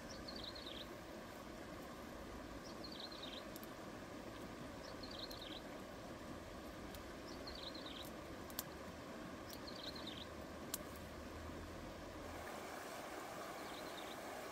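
Steady outdoor background noise with a bird repeating the same short, falling call about every two and a half seconds. Two sharp clicks sound in the second half.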